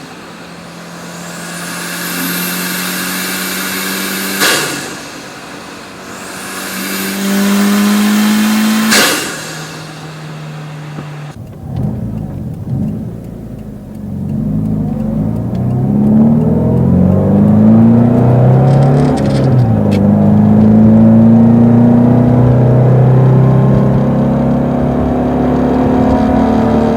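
Subaru Impreza WRX STI's turbocharged EJ257 flat-four on equal-length headers and a free-flowing exhaust, pulling hard, its pitch climbing in two runs, each ending in a sharp whoosh. About eleven seconds in the sound cuts to a louder run where the revs climb, drop back and climb again.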